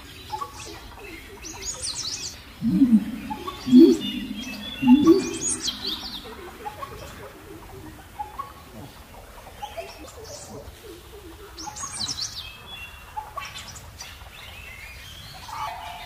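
Birds calling: short, high, wavering chirps come several times, and a louder run of lower calls sounds about three to five seconds in.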